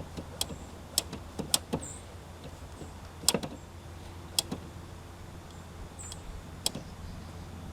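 Irregular sharp clicks and light knocks from parts being handled in a car's engine bay, over a low steady hum.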